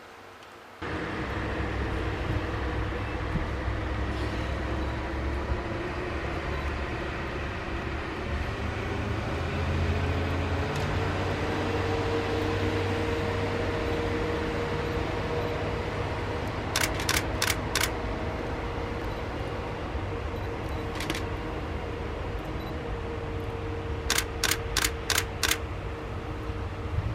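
Shinano Railway 115 series train moving slowly through the depot: a steady low running rumble with held tones, one rising in pitch, and two runs of sharp evenly spaced clicks, four and then five, from the wheels.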